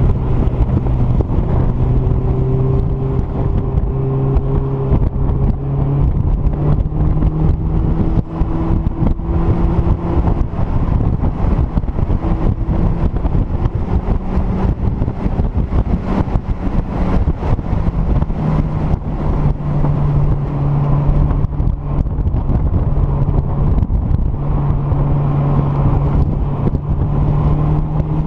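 Mazdaspeed Miata's turbocharged 1.8-litre four-cylinder engine running hard on a race track. The pitch climbs through each gear and drops at the shifts, under a steady rush of wind buffeting the open cockpit.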